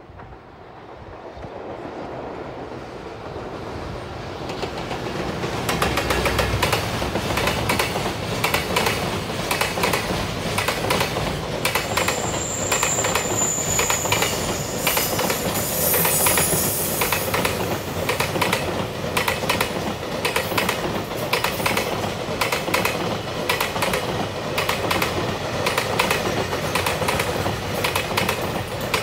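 Freight train hauled by a JR Freight EF210 'Momotaro' electric locomotive passing close by. A rumble grows over the first few seconds, then the wagons run past with continuous clickety-clack of wheels over rail joints. A brief high squeal comes about twelve seconds in.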